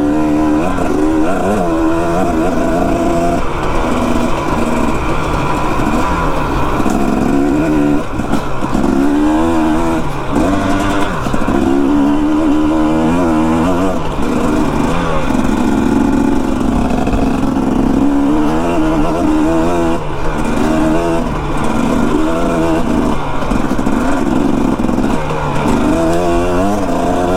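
Dirt bike engine running hard under a rider, its pitch rising and falling over and over as the throttle is worked.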